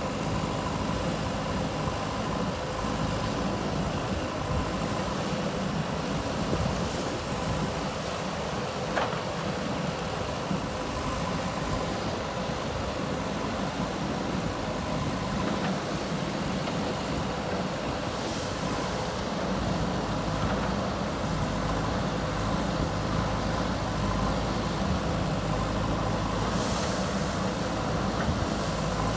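JCB 3DX backhoe loader's diesel engine running steadily at work, its low note getting heavier about two-thirds of the way through. A single sharp click about nine seconds in.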